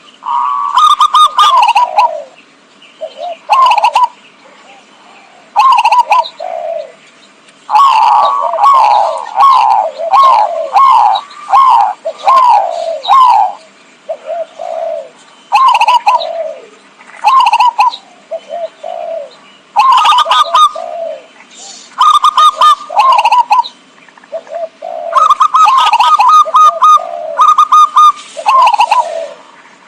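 Zebra doves (perkutut) cooing, a lure call: repeated phrases of quick, pitched notes with short pauses between them, one longer run about a third of the way through.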